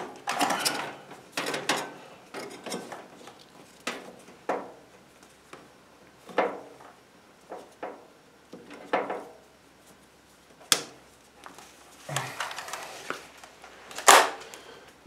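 Irregular clicks, knocks and short scrapes of hand tools working on a stainless-steel extractor hood's sheet metal, with a sharp click about eleven seconds in and the loudest knock near the end.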